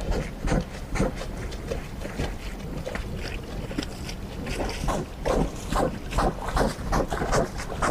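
Bear sounds: a quick, irregular run of short rough bursts over a steady low rumble.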